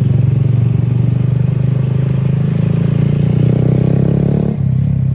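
A motor vehicle's engine running steadily under way, its note shifting about four and a half seconds in.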